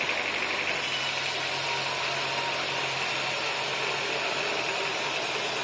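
Sawmill machinery running steadily, engine-like; about a second in the sound shifts, with added hiss and a low hum that then hold steady.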